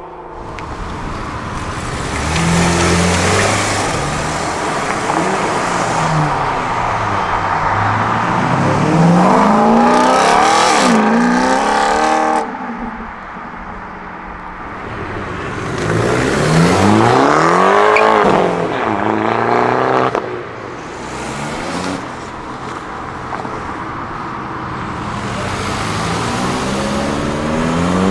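Several modified sports cars and hot hatches accelerating hard away one after another. Each engine revs up in a rising pitch that drops back at every gear change. The two loudest pulls, about a third of the way in and past the middle, cut off suddenly, and another car starts revving up near the end.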